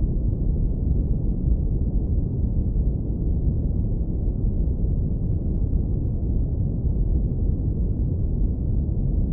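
Synthetic brown noise low-pass filtered down to the bass: a steady, warm, deep rumble with no high end and no changes.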